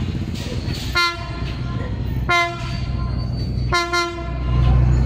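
Philippine National Railways train sounding three short horn blasts about a second and a half apart, over the steady low rumble of the train, which grows louder near the end.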